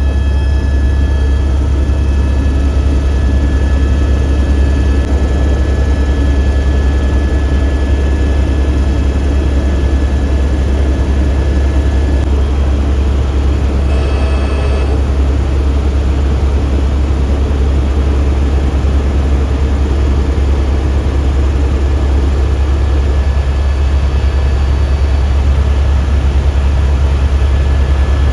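Helicopter in flight: steady engine and rotor noise, a strong low drone with a thin steady whine above it.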